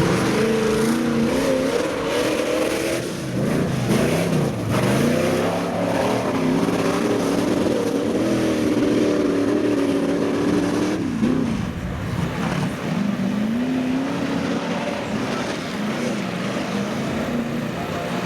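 Engine of an off-road vehicle revving hard. Its pitch dips and climbs, is held high for several seconds, drops off suddenly about eleven seconds in, then climbs again.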